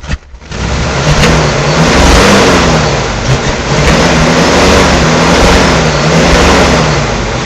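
1970 Chevrolet K5 Blazer's engine being revved repeatedly, its pitch rising and falling in a series of throttle blips, on its first running in a long time.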